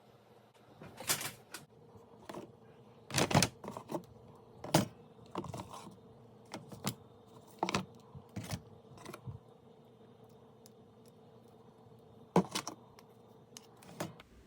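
Irregular clicks and knocks of small hard objects, old flashlights, being picked up, handled and set down, in bunches with short pauses between, over a faint steady hum.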